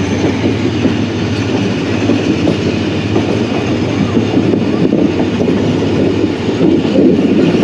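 Passenger train running, heard from one of its coaches: a steady rumble and clatter of wheels on the track, with the ZCU-30 diesel locomotive chugging ahead as the train gathers speed after departure.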